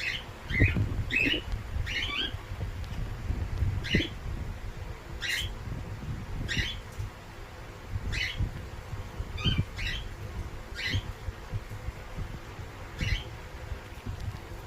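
A bird squawking in short, separate calls, about a dozen of them spread irregularly, over a low rumble.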